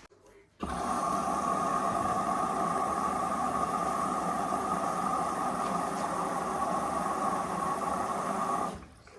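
Hoover Vision Dynamic washing machine starting its cycle: a steady mechanical whir with running water that cuts in about half a second in and stops abruptly about eight seconds later.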